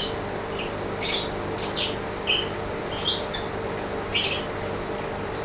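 Small birds chirping: short, high chirps repeating every half second or so, over a steady low hum.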